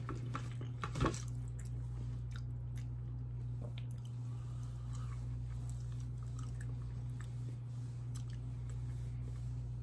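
A person chewing a mouthful of shrimp alfredo pasta, with wet mouth clicks and smacks, the loudest about a second in. A steady low hum runs underneath.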